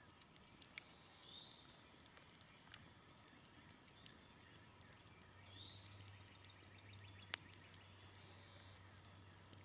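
Faint, sparse crackles and pops from a smoldering campfire, one sharper pop about seven seconds in. A bird gives a short rising-and-falling chirp twice. A faint low hum starts about halfway through.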